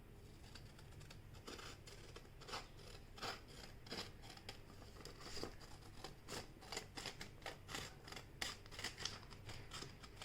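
Scissors cutting a sheet of paper along a fold, a run of short snips that come closer together in the second half.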